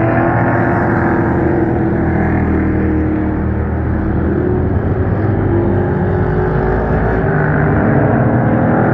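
Pro Truck race trucks' engines running at racing speed around a short oval track. Several engines are heard at once, their pitches rising and falling as the trucks accelerate and pass.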